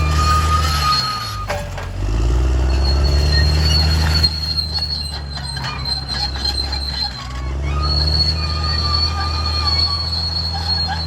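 Caterpillar D6R XL bulldozer's diesel engine running under load. Its pitch sags about a second in and picks back up about two seconds in. A high, steady metallic squeal comes and goes over the engine, the kind of squeal tracked machinery gives off as it moves.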